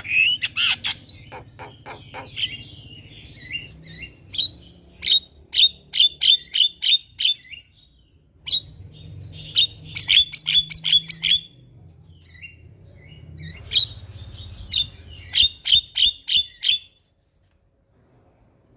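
Javan myna calling: runs of sharp, quickly repeated chirping notes, three runs with short pauses between them, then it stops a little before the end. A faint low hum sits underneath.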